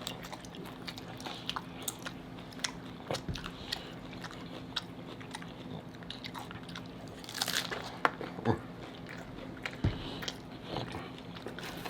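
Close-up chewing and crunching of hard taco shells: irregular small crunches and mouth sounds, with a denser run of crunches around seven to eight seconds in.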